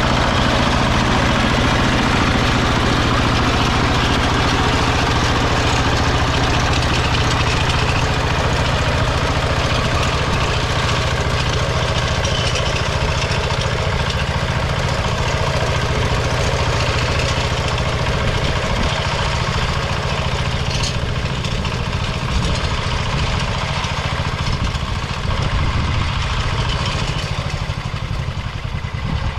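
Kentavr MB 1010DE-6 walk-behind tractor's single-cylinder diesel engine running steadily, easing off slightly near the end.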